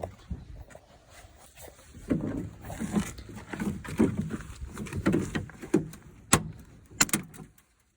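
Hands and a tool working at a pickup truck's interior door panel: a run of irregular rattling knocks, then two sharp cracks near the end, which the workers take for a part of the old door trim breaking.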